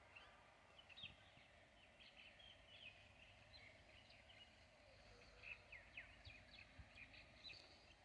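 Faint bird chirping: many short, high chirps and quick down-sliding notes from several birds, busiest in the second half.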